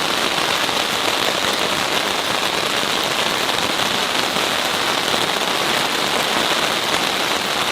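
Heavy thunderstorm rain pouring down in a loud, even hiss.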